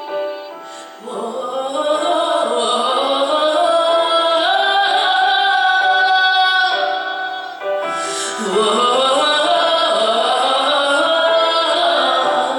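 Song accompaniment with wordless singing between verses: the voice slides upward in pitch twice over a held low note.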